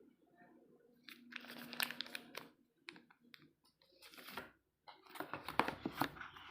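Unboxing packaging being handled, crinkling and rustling with sharp clicks in three bursts: about a second in, around four seconds, and again from about five seconds.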